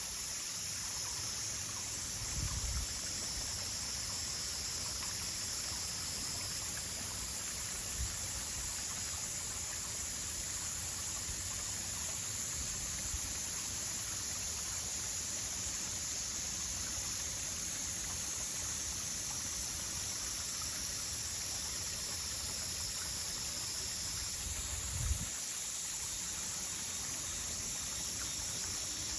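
Steady sound of a flowing stream, with an even high-pitched hiss layered over it. Two brief low bumps, a couple of seconds in and near the end.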